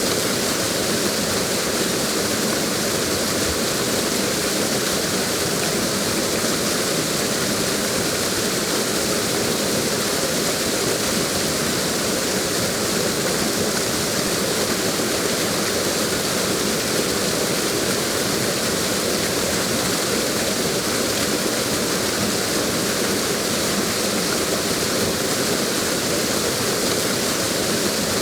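Waterfall rushing, a steady, even roar of falling water that does not change.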